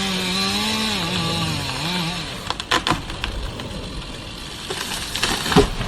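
Chainsaw running hard, its engine pitch wavering up and down for the first two seconds, then cutting through wood, with a few sharp cracks about three seconds in and near the end.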